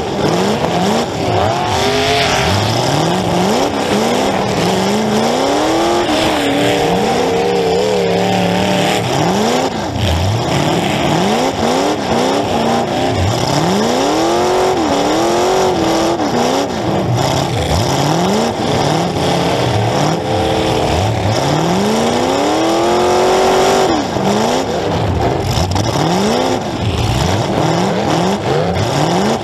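Demolition derby car engines revving hard and dropping back again and again, several at once, heard close from inside the driver's car.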